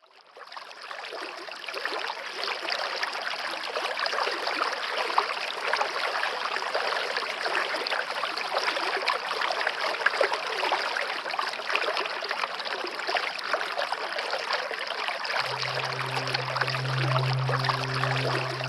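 Stream running steadily, fading in over the first couple of seconds. Near the end a soft, low sustained music tone enters under the water.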